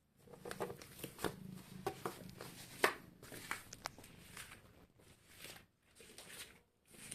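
Irregular rustling, scratching and sharp clicks close to the microphone, with a cat's faint purr in the first couple of seconds.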